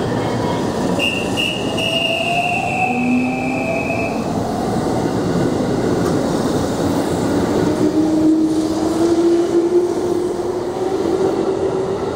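Electric commuter train, a 313 series coupled to a 211 series, pulling out and rolling past at close range with a steady wheel-on-rail rumble. A high thin tone sounds for about three seconds near the start. Through the second half a lower whine climbs steadily in pitch as the train gathers speed.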